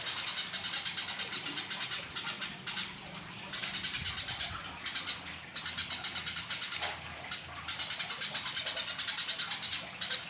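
Eurasian tree sparrows chirping in a rapid, steady stream of high calls, about seven or eight a second. The chirping comes in bouts broken by several short pauses.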